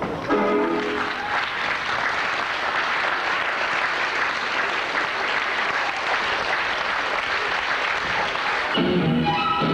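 Concert-hall audience applauding as a musical number ends, the last notes of the music dying away in the first second. Near the end the applause is cut off by the next piece of music starting.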